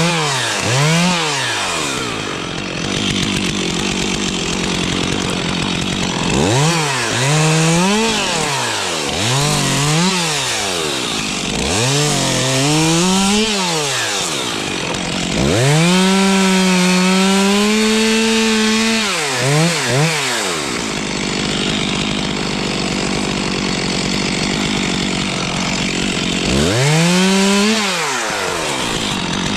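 Stihl two-stroke chainsaw cutting dead spruce, revved up and down repeatedly in short bursts, with a longer held run in the middle.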